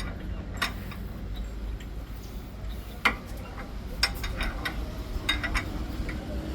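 Irregular sharp metallic clicks and clinks of hand tools and bolts against steel while a tractor bumper is bolted on, a handful of separate strikes over a steady low hum.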